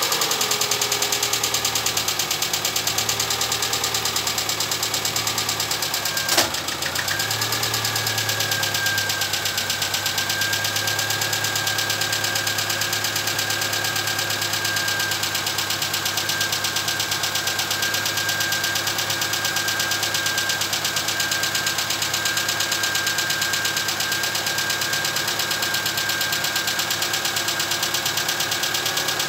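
Chevrolet Cruze four-cylinder engine idling just after its first start following a rebuild with a new crankshaft, with a light, fast ticking from the hydraulic valve lifters, which the owner expects to stop once they pump up with oil. A single sharp click comes about six seconds in, after which the idle steadies with a high, even whine above it.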